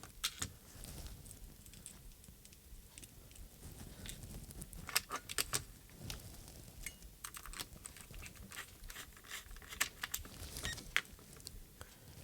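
Scattered light clicks and taps from small plastic parts of an opened RC radio transmitter being handled, with a quick cluster of clicks about halfway through and another near the end.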